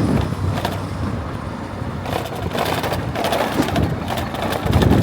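Rumbling road noise and wind buffeting the microphone while riding along a road, with some rattling clatter in the middle.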